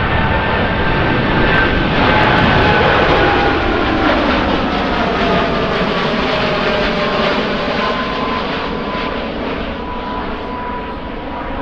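Jet airliner's engines passing by: a loud rushing roar with whining tones that fall steadily in pitch as the aircraft goes past. It is loudest a couple of seconds in, then slowly fades.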